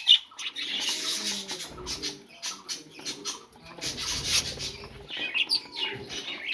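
Pet budgerigars chirping and chattering in short, high notes, with two bursts of rustling wing flapping, about a second in and again about four seconds in.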